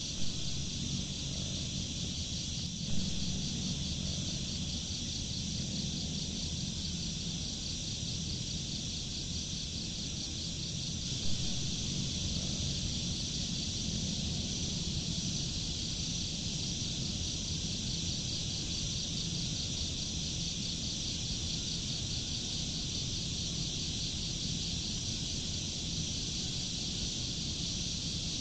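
Steady high-pitched insect chorus with a fast, even pulsing trill, over a continuous low rumble. Three brief louder sounds stand out: just after the start, about three seconds in, and about eleven seconds in.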